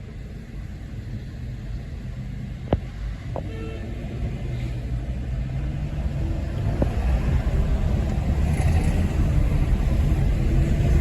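Low vehicle engine rumble that grows steadily louder, with one sharp click about three seconds in.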